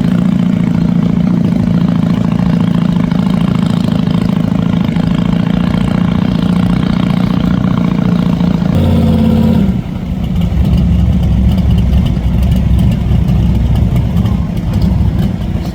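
Big inboard V8 boat engine running loud with a deep, steady note. The sound shifts abruptly about nine seconds in and again a second later.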